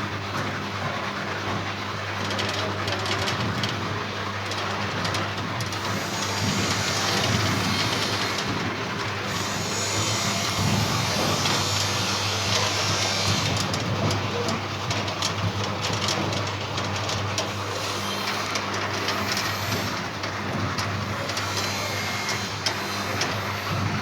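Plum sizing machine running: a steady motor hum under a constant clatter of plums rolling and knocking through the grader.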